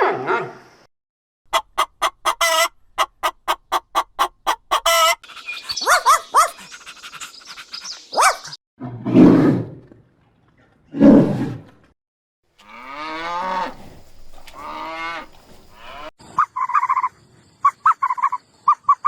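A series of different animal calls, one after another. A rapid run of short sharp calls comes first, then several longer pitched calls, including two deep ones, and finally a string of short repeated calls.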